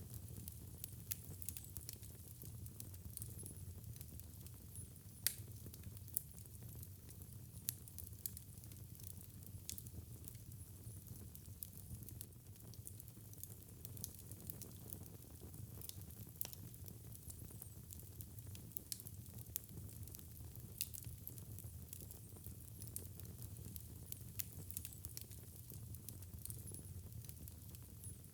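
Wood fire burning in a fireplace: a faint, steady low rumble with irregular crackles and sharp pops, a few louder pops among them.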